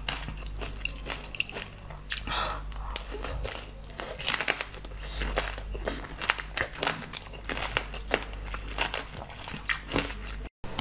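Close-miked eating sounds: crisp crunching and wet chewing of a glossy glazed orange treat, a dense irregular run of sharp crackly clicks over a steady low hum, breaking off briefly near the end.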